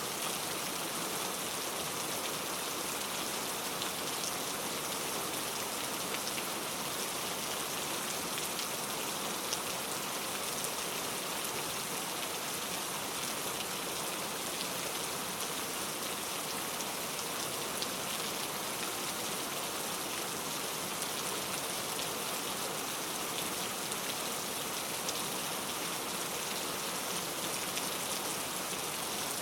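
Steady heavy rain falling, an even hiss with scattered small drop ticks and no thunder.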